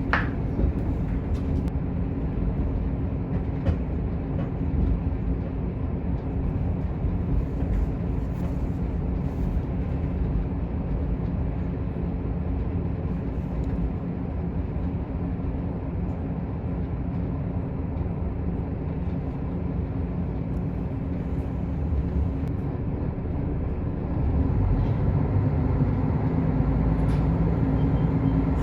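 Diesel railcar running on the line, heard from inside the car: a steady low rumble of the engine and wheels on the rails. About 24 seconds in it grows louder, with a stronger steady hum.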